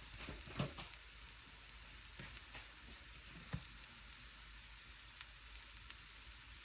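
Hash browns frying: a faint, steady sizzle with a few light clicks and taps.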